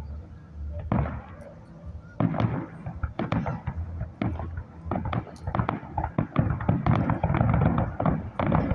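Fireworks display: a single bang about a second in, then from about two seconds in a dense, rapid string of bangs and crackles that grows louder toward the end.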